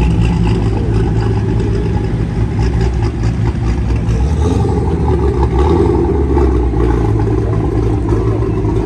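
Car engine running steadily with a loud, low rumble.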